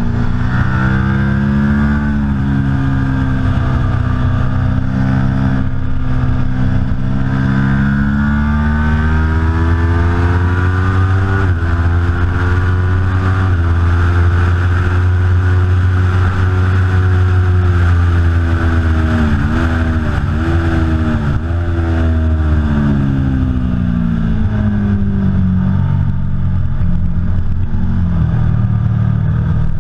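Aprilia Tuono V4 Factory's V4 engine at speed on a race track. The pitch climbs under acceleration and breaks off sharply at gear changes, then falls under braking, with three quick dips about two-thirds through as it is shifted down.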